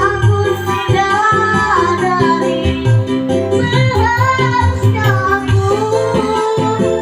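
A child singing a melodic song over a band backing with a steady bass beat.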